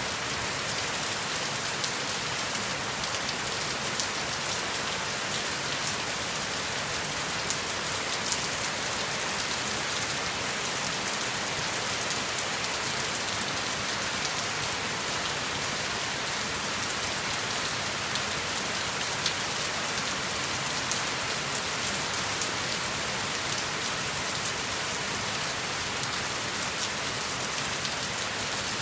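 Steady heavy rain falling, an even hiss with scattered louder drop ticks on a surface.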